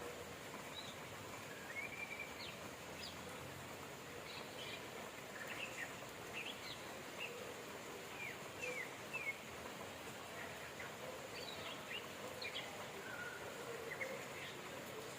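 Steady rain hiss with small birds chirping repeatedly over it, in short, quick chirps scattered throughout.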